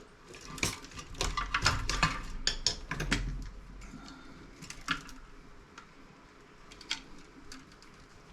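Clicks and light metallic clinks as wires and parts are worked loose from a CRT monitor's chassis. The clicks come thick in the first few seconds, then only a few scattered ones.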